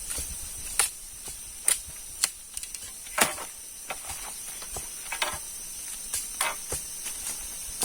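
Insects chirring steadily in a high, even band, with irregular sharp clicks and knocks every second or so over it.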